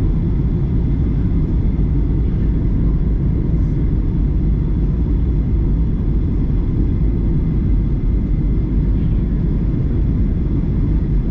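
Steady cabin rumble of a Boeing 737-900ER airliner's CFM56 jet engines and air noise, heard from a rear seat, with a few faint steady whines on top.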